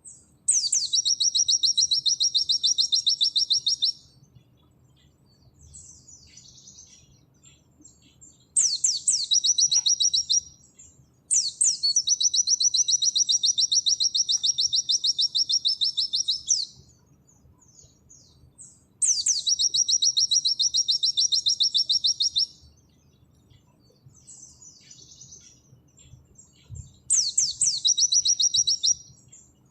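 A white-eye (pleci) sings its rapid-fire 'nembak' song five times. Each run opens with a few sweeping notes, then a fast, even string of high notes lasting two to five seconds. Soft twittering fills the gaps between runs.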